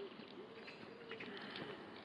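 Pigeons cooing in low, wavy calls, with small birds chirping faintly over them.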